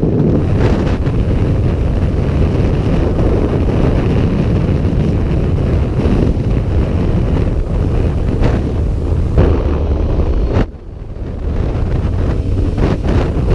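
Wind rushing over the microphone of a moving motorcycle, with engine and road noise underneath. About eleven seconds in the noise drops away sharply, then builds back up.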